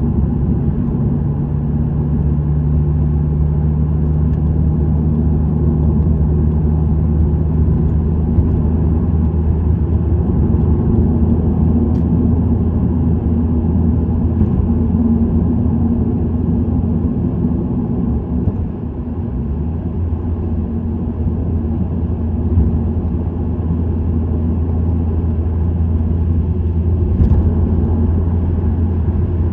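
Subaru WRX STI's turbocharged flat-four engine through an STI Performance muffler, droning steadily at cruise with road and tyre noise. The engine note shifts slightly about a third of the way in, and the level dips briefly around the middle.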